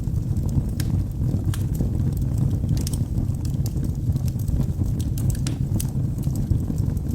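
Wood logs burning in a fireplace: a steady low rumble of the flames with frequent sharp, irregular crackles and pops, several a second.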